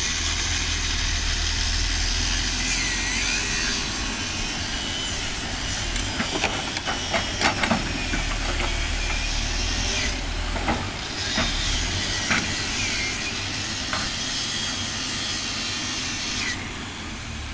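Backhoe running, its diesel engine droning steadily under a hiss, with a run of sharp metal clanks about six to eight seconds in, a few single knocks later, and brief squeals.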